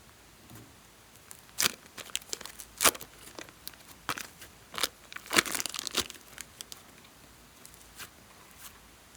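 Slime-making materials being handled, giving irregular sharp crinkles and crackles that come thickest from about one and a half to six seconds in.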